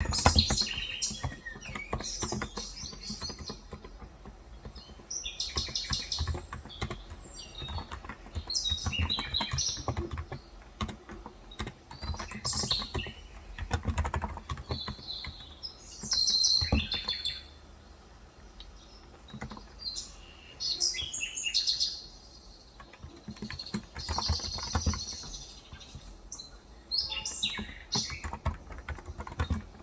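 Typing on a Cox Endeavor electrostatic capacitive tenkeyless keyboard with 35 g switches, in irregular bursts of keystrokes with pauses between. Small birds chirp repeatedly throughout.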